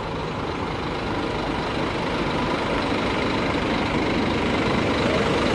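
Scania K410EB coach's rear-mounted diesel engine idling steadily, growing slowly louder, with a faint high whine over it.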